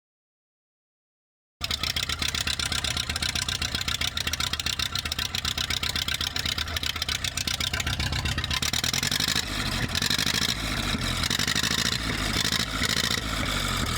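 Ferguson TED 20's four-cylinder engine running at a steady idle with a fast, even pulse of exhaust beats, loud and raw from an almost non-existent exhaust. It starts abruptly after a moment of silence.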